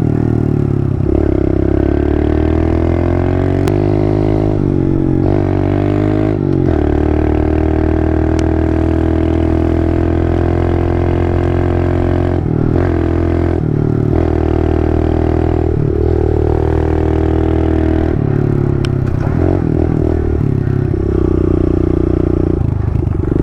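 Kawasaki KLX110 pit bike's small four-stroke single-cylinder engine running under throttle, its pitch rising and falling. The engine briefly drops off throttle a few times in the middle.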